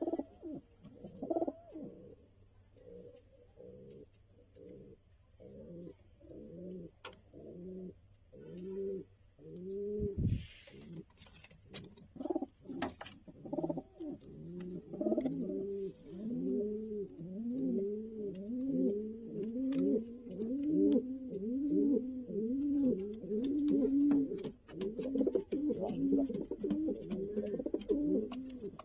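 Pigeons cooing: a long run of short, arched coos, one after another. Sparse and fairly quiet at first, they become louder and come thick and fast from about halfway on.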